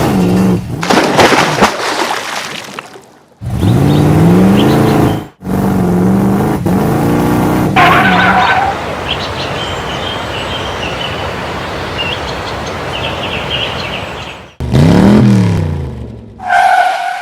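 Edited sequence of vehicle engine sounds revving up and down, cut abruptly several times, with a long stretch of steady rushing noise in the middle and a short high steady tone twice.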